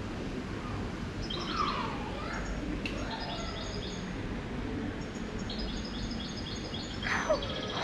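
Small birds chirping: clusters of quick, high-pitched repeated notes every second or two, over a steady low background hum.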